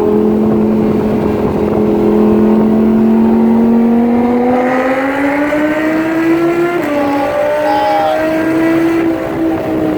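Lamborghini Huracán's V10 engine pulling under acceleration, its note climbing steadily in pitch, then dropping sharply about seven seconds in as it shifts up, and holding fairly steady after that.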